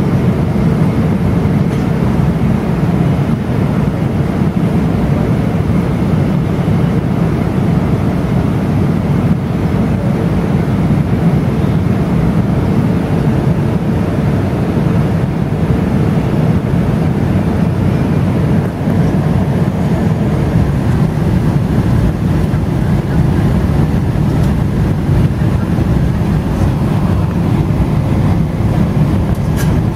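Steady low rumble of a Boeing 777-300ER's engines and airflow heard inside the cabin, with a faint steady hum in it that fades out about twenty seconds in.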